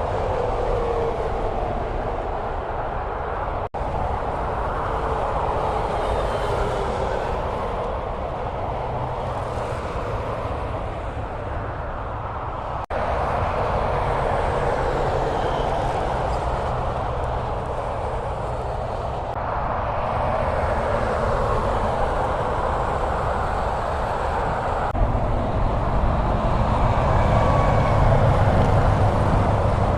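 Steady road noise of traffic on a highway: engine rumble and tyre noise of passing vehicles, broken by two brief abrupt dropouts, about four and thirteen seconds in, and growing louder near the end.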